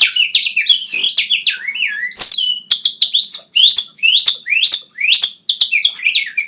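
A man whistling a rapid-fire run of bird-like chirps: short, quick notes sweeping up and down in pitch, several a second, with only brief gaps between bursts.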